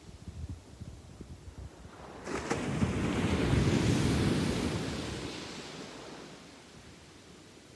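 A sea wave breaking on the beach about two seconds in, its wash swelling and then fading away over the next few seconds. Before it, a low gusty rumble of wind on the microphone.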